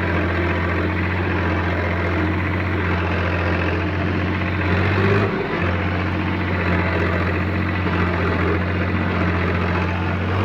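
Tractor engine running steadily under load while the tractor works to get free of the field where it is stuck, with a brief dip about five seconds in.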